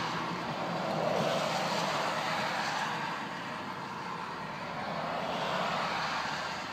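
Hiss of tyres on a wet road after a rainstorm, heard from a vehicle in traffic; it swells twice and fades between.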